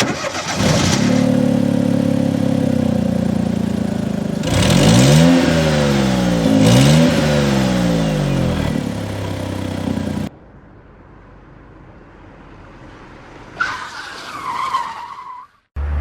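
Sports car engine running and being revved, its pitch rising and falling in two swells about five and seven seconds in. It cuts off suddenly after about ten seconds, leaving a low hum. Near the end comes a brief high squeal, then another engine starts up loud.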